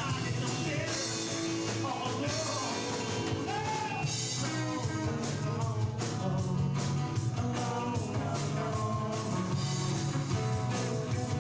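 Rock song with a singing voice, guitars and a drum kit playing.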